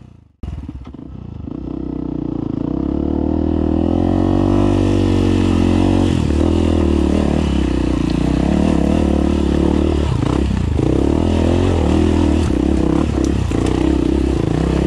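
Off-road motorcycle engine running while ridden over rough trail, its pitch rising and falling with the throttle, with a few knocks and clatter from the bike. The sound cuts out briefly about half a second in and fades back up over the next few seconds.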